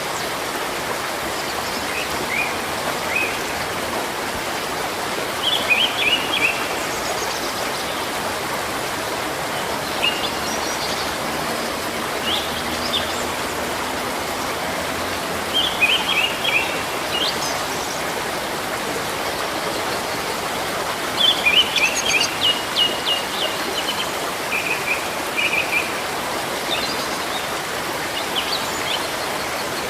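Steady rush of running water, with small birds chirping in short bursts of quick notes every few seconds, busiest about a third of the way in and again around two thirds of the way through.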